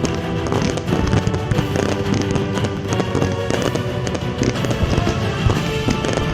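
Music playing steadily, with fireworks bursting and crackling over it: many sharp cracks and bangs throughout.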